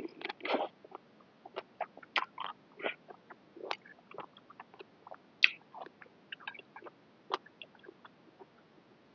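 Close-up eating sounds of a person eating a bowl of noodles: irregular wet chewing clicks and lip smacks, a denser cluster right at the start.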